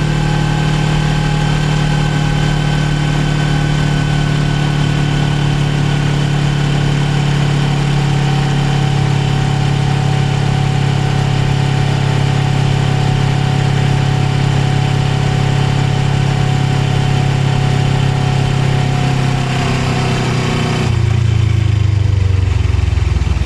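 Suzuki GSX250R parallel-twin engine running at a steady, even speed. About twenty seconds in its pitch drops and the sound changes.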